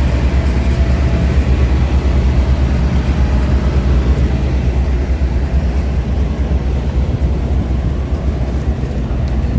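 Diesel railcar's underfloor engines idling with a steady low rumble at the platform.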